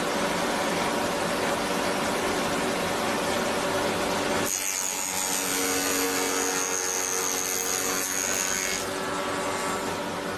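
SH30-2 woodworking spindle moulder running with a steady hum. About four and a half seconds in, the sound changes suddenly and a high whine rides over it for some four seconds as the cutter works wood; then the plain running hum returns.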